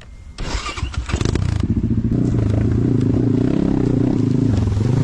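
Pit bike engine running at a steady speed, preceded in the first second or so by a clattering scrape.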